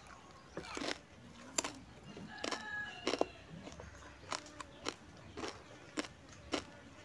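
Close-miked chewing of rice and crispy pork eaten by hand, with irregular crunches and wet mouth clicks.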